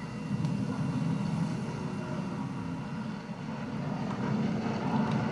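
Video-game helicopter engine and rotor noise, a steady low rumble, as the helicopter comes under attack and goes down.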